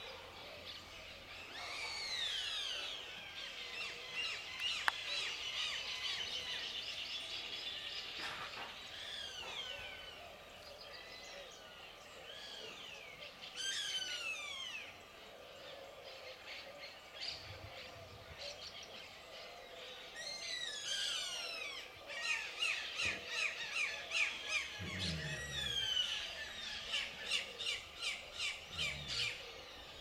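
Several songbirds calling and singing together, a busy chorus of short, mostly falling whistled notes, with a fast run of repeated notes in the last several seconds.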